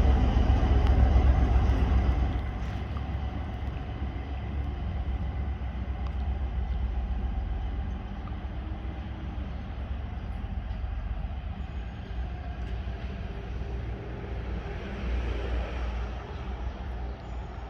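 2M62U diesel locomotive passing, its engines giving a low rumble that is loudest for about the first two seconds, then drops to a quieter rumble that slowly fades as the train rolls by.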